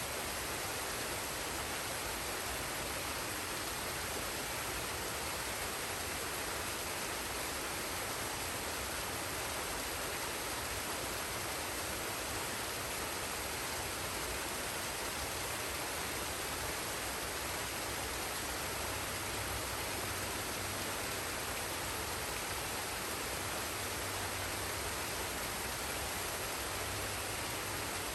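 Forest waterfall and stream: steady, unbroken rushing water.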